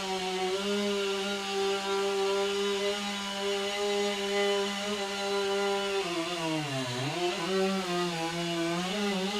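Stihl chainsaw running at full throttle, cutting through a red oak log. About six seconds in, the engine pitch drops sharply as the saw bogs under load, then climbs back. The chain has just struck a stone, which makes the cut about twice as long.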